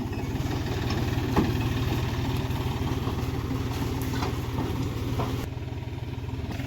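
John Deere tractor's diesel engine running steadily at low revs.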